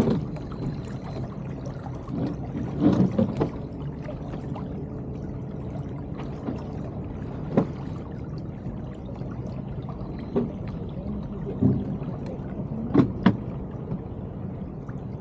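Water trickling and gurgling along the hull of an Elliott 7.4 sailing yacht under way, with a few short knocks on board.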